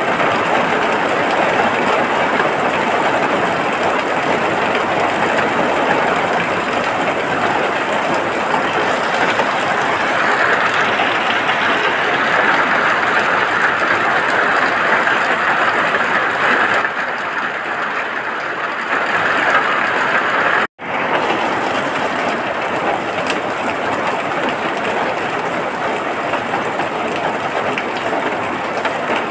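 Steady heavy rain, a dense even hiss of falling water. About two-thirds of the way through it cuts out for a split second and comes straight back, an edit in the recording.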